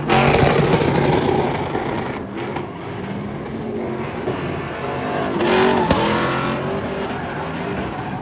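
Vehicle engines running and revving, loudest near the start, with an engine pitch rising and falling and a single sharp click about six seconds in.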